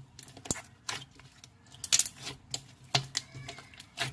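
Slime with solid parts mixed in being pressed and worked by hand, giving irregular small clicks and crackles.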